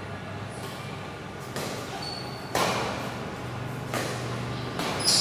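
Badminton rally: a shuttlecock struck by rackets four times, about a second apart, each sharp hit ringing briefly in a hall. A few short high squeaks come between the hits.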